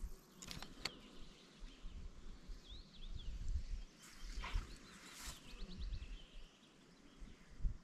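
Small birds chirping in short calls, over a low wind rumble on the microphone, with a few brief rustling or handling noises near the start and around the middle.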